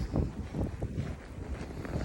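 Strong wind buffeting the microphone in a snowstorm: an uneven, gusting rumble with irregular low thumps.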